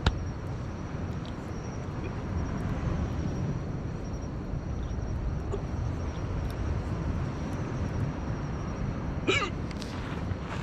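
Campfire burning: a steady low rumble with a few sharp crackles, the loudest about nine seconds in.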